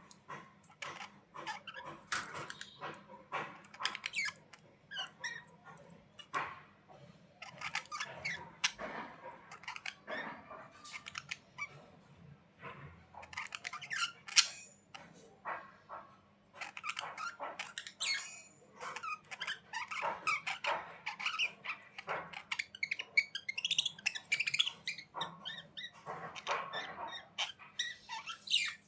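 Budgerigars chattering: a busy, irregular stream of short squeaky chirps and clicks, with a few sharper, louder chirps.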